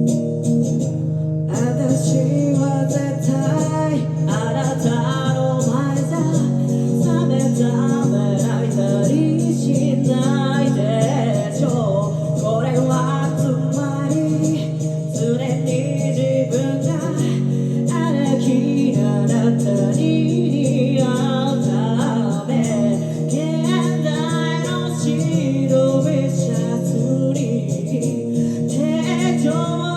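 A woman singing with acoustic guitar accompaniment in a live acoustic performance. The guitar plays steady chords throughout, and the voice comes in about a second and a half in.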